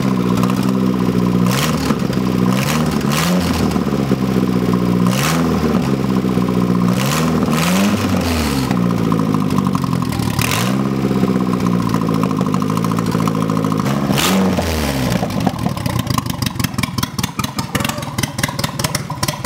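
Turbocharged Nissan KA24DE 2.4-litre four-cylinder engine starting and being revved, its pitch rising and falling about six times with several sharp cracks in between. For the last few seconds it settles into an uneven, rough-running idle.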